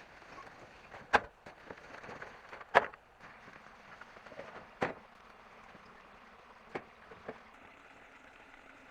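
Sharp knocks a second or two apart, three loud and two fainter near the end, over a steady background hiss.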